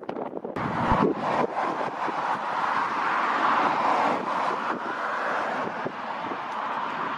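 Antonov An-124's four turbofan engines roaring, swelling about a second in and then easing off slowly, with wind buffeting the microphone near the start.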